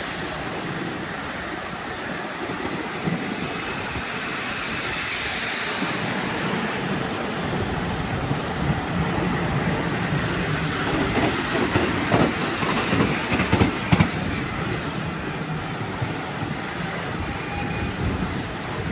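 Miniature passenger-carrying railway train running along its track: a steady rumble of wheels on rail, with a run of sharp clicks as the wheels pass over rail joints a little past halfway.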